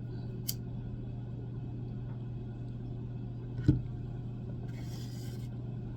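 Steady low electrical hum, with a light knock just past the middle. Near the end comes a short, scratchy hiss of under a second, a match being struck to light a candle.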